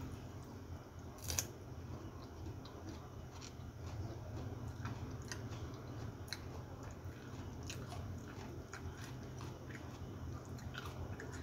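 Close-up eating sounds: biting into a raw cucumber slice and chewing, a string of small mouth clicks with one sharper click about a second in, over a low steady hum.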